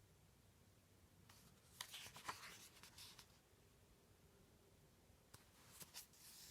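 Faint rustling and light clicks of a picture book's paper pages being handled, in two short bouts about two seconds in and again near the end.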